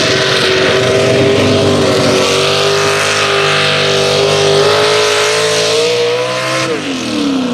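Pulling truck's engine running at steady high revs down the track, then the revs fall away sharply near the end as the throttle comes off.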